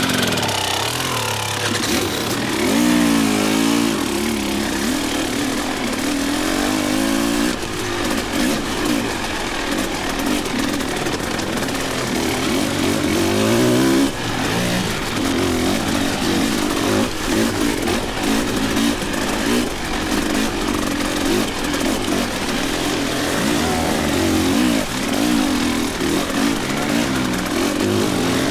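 Enduro dirt bike engine being ridden, its pitch rising and falling over and over as the throttle is opened and shut, with sharp drops now and then.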